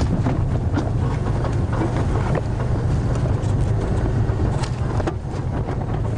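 Game-drive vehicle's engine running steadily as it drives along a bush track, with frequent short knocks and rattles from the vehicle over rough ground.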